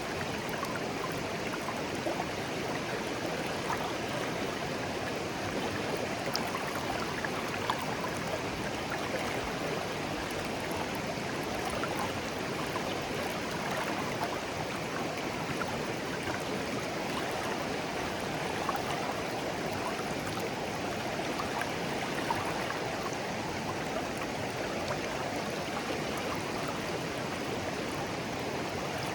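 Shallow clear stream flowing gently, a steady babble of water with small splashes and trickles over stones.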